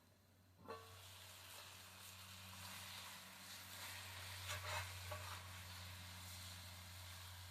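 Sausages sizzling over a campfire: a steady frying hiss that starts just under a second in.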